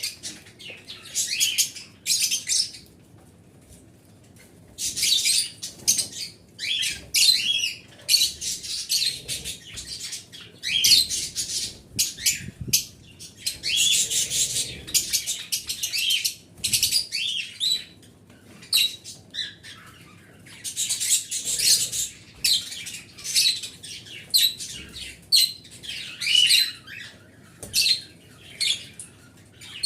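Small cage birds chirping in bursts of rapid high chirps, with short pauses between the phrases and a longer lull of about two seconds near the start.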